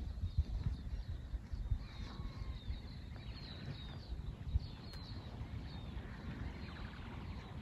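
Small birds chirping repeatedly in high, short notes over a low, uneven rumble of wind on the microphone.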